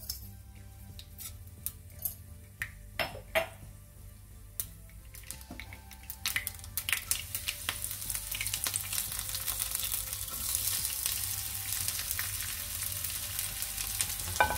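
Mustard seeds popping in hot oil in a nonstick pan, a scattering of sharp crackles. From about five seconds in, a steady sizzle builds as chopped curry leaves, green chilli and onion go into the oil and fry.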